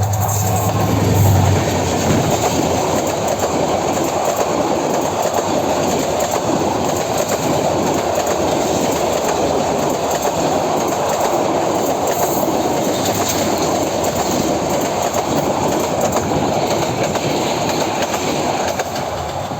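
Passenger coaches of an express train rushing past at speed, their wheels clattering steadily over the rails. A low hum from the diesel locomotive stops about a second and a half in.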